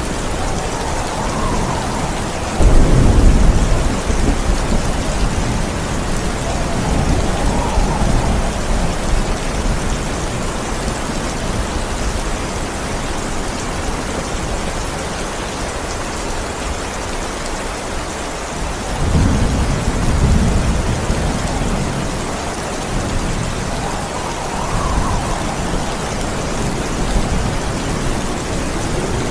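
Steady heavy rain with rolling thunder. A loud, sudden thunder rumble comes about three seconds in, and softer rolls follow several times later.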